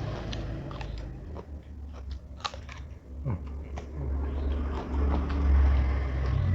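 Close-miked chewing: a person biting and crunching food in the mouth, with irregular sharp crunches.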